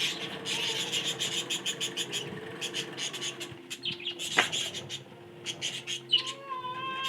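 Budgerigars chattering in rapid runs of short chirps, with one sharp, loud call about four seconds in and a held, whistle-like tone starting near the end.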